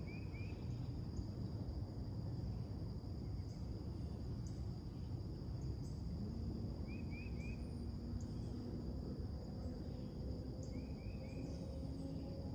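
Late-summer morning soundscape: a steady high insect drone, with a bird giving quick runs of three rising chirps, once at the start, once about seven seconds in and once near the end. Under it is a constant low rumble, and a faint low hum comes in about halfway through.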